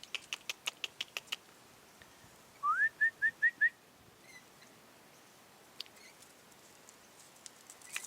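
A quick run of about eight sharp clicks, then a clear whistled call: one upward-gliding note followed by four short, evenly spaced notes at the same pitch.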